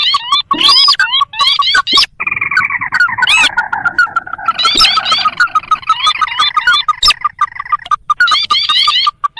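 Recorded calls of the sintar, a marsh crake, played as a bird lure: fast, repeated rising chattering notes, with a long, slowly falling rattling trill about two seconds in.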